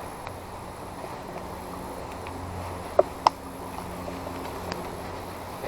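Steady rush of a small creek, with two brief high squeaks about three seconds in.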